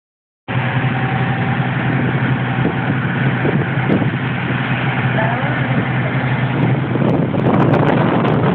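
Motorboat engine running steadily under a rush of noise that grows louder near the end.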